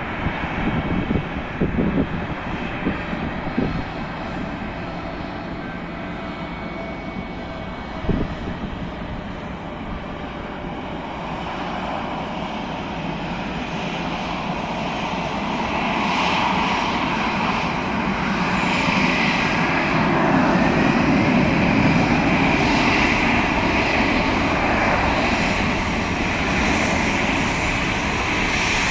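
Airbus A319 jet engines at takeoff thrust, a steady noisy rumble that grows louder from about twelve seconds in and stays loud through the second half. A few low thumps come in the first seconds, and one more about eight seconds in.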